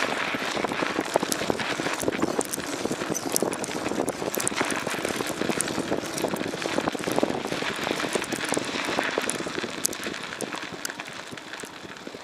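Footsteps crunching and rustling on dry, loose ground while walking, a dense irregular run of crackles and crunches close to the microphone, easing off slightly near the end.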